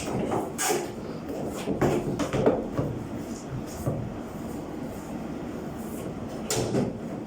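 Irregular knocks and clatter from a clothes dryer being worked on, over a low rumble.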